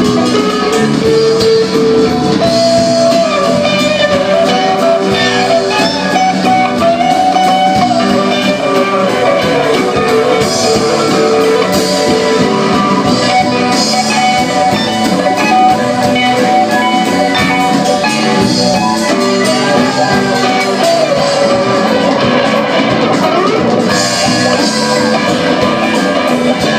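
Live rock band playing, with guitar to the fore over a drum kit, the guitar bending and sliding between notes.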